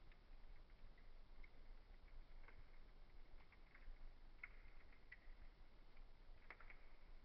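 Faint crackling of a wood fire: scattered small pops and ticks, with a brief cluster of them about six and a half seconds in.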